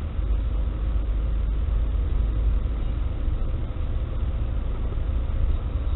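Steady low rumble of a moving car's road and engine noise, without any impact or horn.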